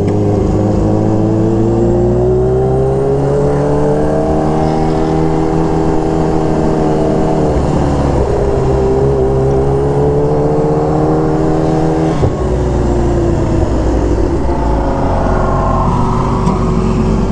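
Engines running on the road at steady speed, one engine note slowly rising and falling in pitch, with a brief change about twelve seconds in.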